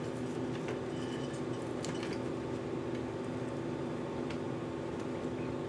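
A steady hum of several level tones, with a few faint clicks and clinks.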